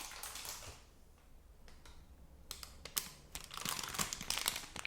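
Close-up ASMR tapping and clicking on objects, with some crinkling. It is sparse at first and becomes a quick, dense run of taps from about halfway through.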